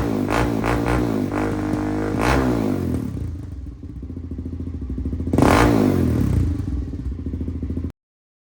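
Suzuki LTZ400's single-cylinder four-stroke engine through a Yoshimura exhaust with the spark arrestor removed, revved up and down repeatedly, settling to a steadier idle, then one more sharp rev about five and a half seconds in. The sound cuts off abruptly near the end.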